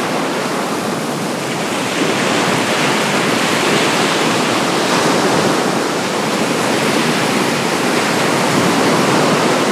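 Baltic Sea waves washing onto the shore: a steady rush of surf that swells and eases every few seconds.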